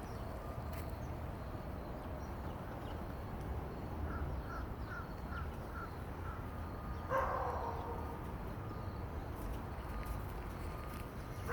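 A crow cawing: a quick run of about six short calls a little after four seconds in, then one louder, harsher caw about seven seconds in, over a steady low rumble.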